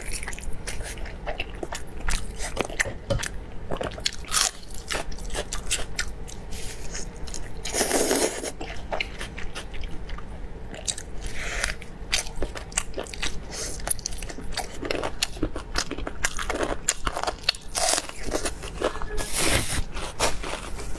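Close-miked eating: a person biting and chewing sauce-covered beef rib meat, with wet smacking and crisp crunching bites.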